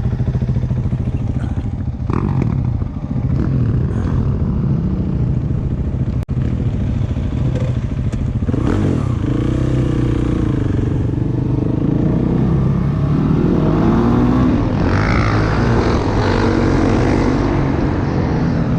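Dirt bike engine running steadily while riding. In the second half the revs rise and fall.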